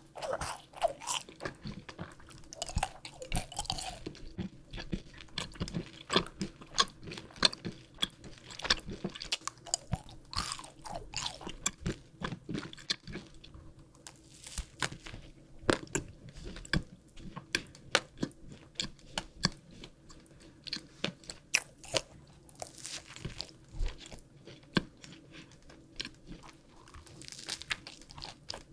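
Close-miked eating: crunchy chewing and bites of sweets and a sprinkle-covered rainbow bagel, with sharp, irregular crackles several times a second.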